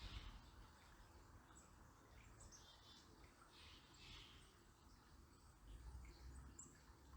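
Faint birds chirping: scattered short, high calls over a quiet hiss, with a low rumble coming in near the end.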